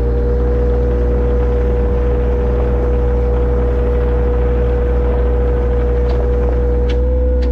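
Engine of a digging machine running steadily at a constant pitch, with a steady whine over a low hum.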